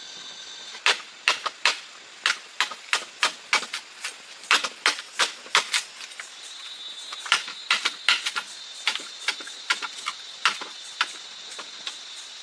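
A long, irregular run of sharp, hard knocks, about two to three a second, starting about a second in and stopping near the end, with a steady high-pitched whine behind them.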